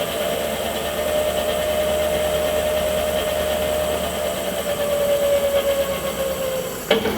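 Renault Twizy electric drivetrain whining steadily as the raised rear left wheel spins free, the tone sagging slightly in pitch over the last few seconds, then a sharp click near the end as it winds down. No abnormal whistle is heard on this side, ruling out the motor, its bearings and the transmission as the source of the strange whistle.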